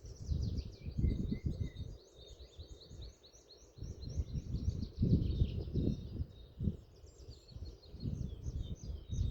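Small songbirds singing: a fast series of short, high, repeated notes, about three a second, for the first six seconds, then scattered notes. A gusting low rumble underneath is the loudest thing.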